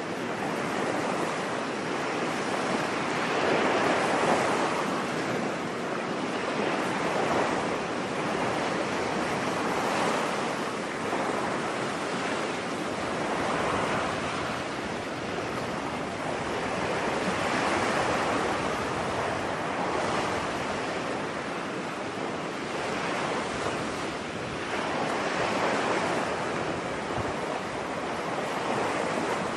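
Ocean waves washing onto a beach: a steady hiss of surf that swells and falls back every few seconds.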